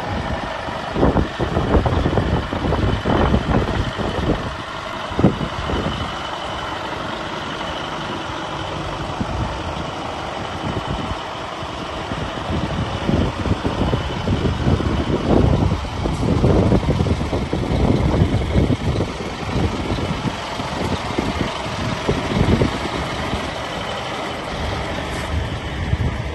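Scania tanker truck's diesel engine running at idle, with uneven gusts thumping on the microphone.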